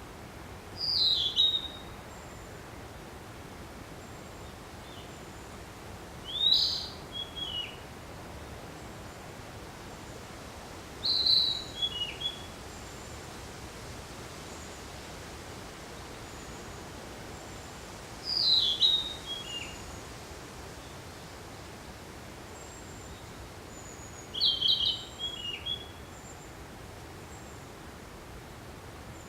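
Narcissus flycatcher singing: five short phrases, one every five to seven seconds, each a loud opening note followed by a few quick falling notes. A steady hiss lies underneath.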